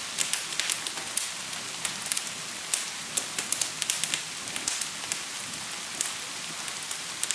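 Steady hiss of gentle rain with many sharp, irregular crackles and pops of a wood fire over it.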